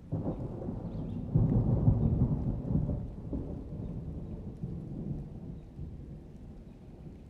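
Rolling thunder in a rainstorm: a low rumble that swells to its loudest a second or two in, then slowly dies away.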